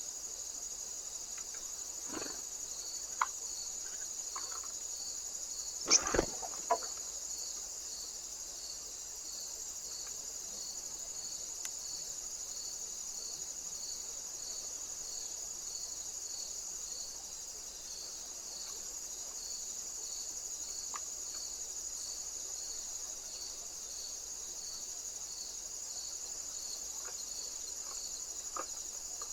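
Crickets chirping steadily in a high-pitched chorus, with a regular pulse a little more than once a second. A few sharp knocks come near the start, the loudest about six seconds in.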